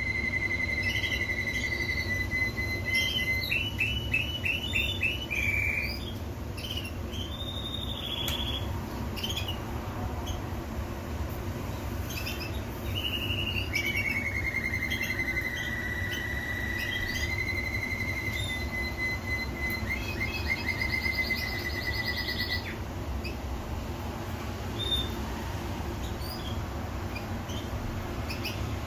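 Domestic canary singing: fast rolling trills and held whistled notes, phrase after phrase, over a steady low hum. The song stops about 22 seconds in, leaving only a few faint chirps.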